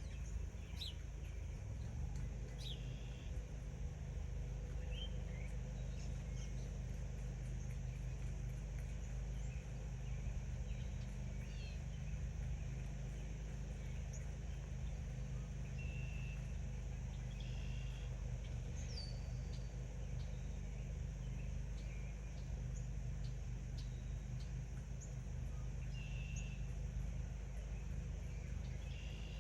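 Backyard birds chirping: scattered short chirps and quick rising and falling whistles throughout, over a steady low rumble.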